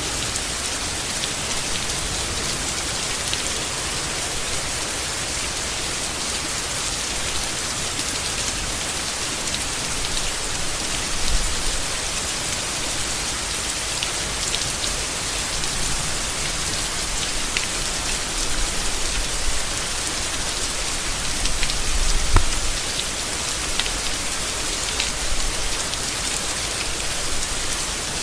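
Steady rain falling on leaves, an even hiss with scattered close drop ticks. A few dull low thumps come through, the strongest about 22 seconds in.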